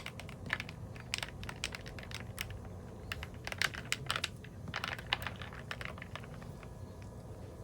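Irregular light clicks and taps, some in quick little clusters, over a low steady background hum.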